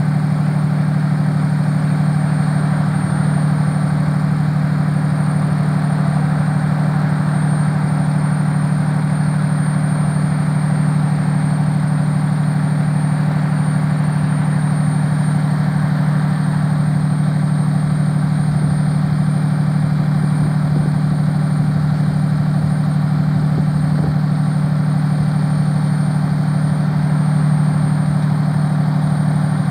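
Fire department aerial ladder truck's diesel engine running at a steady idle, a constant low hum with a faint steady high whine above it.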